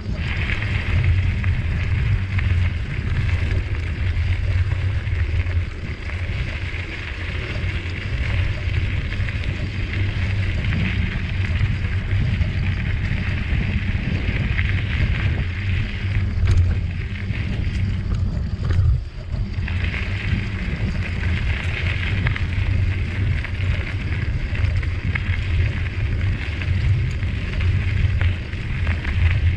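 Steady rumble of riding a bicycle: wind buffeting the microphone and tyres running over the trail, with a steady higher hiss above it that briefly drops away about nineteen seconds in.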